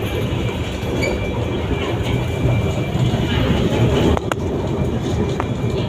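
Kuala Lumpur LRT train heard from inside the car while running: a steady low rumble of the car on the track, with one sharp click a little over four seconds in.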